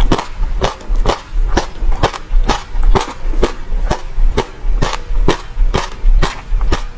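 Close-miked chewing of passion fruit, the seeds crunching in a steady run of sharp clicks about three or four times a second.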